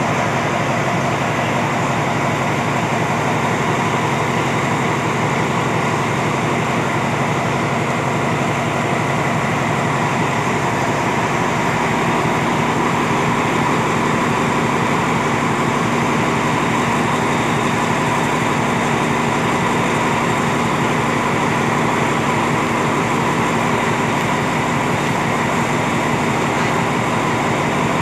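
Passenger coaches of a Thai diesel rapid train rolling past along the platform as the train pulls in to stop: a steady, even noise of wheels running on the rails, with a faint steady whine on top.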